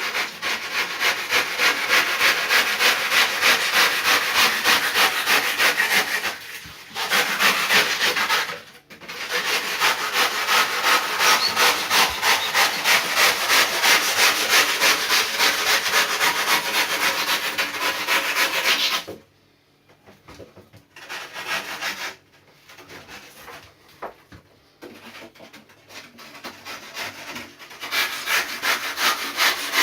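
Hand rip saw cutting through cured pour-in foam on a surfboard, in quick, even back-and-forth strokes of about three a second. The sawing pauses briefly twice, stops for several seconds with only small knocks and handling noise, then starts again near the end.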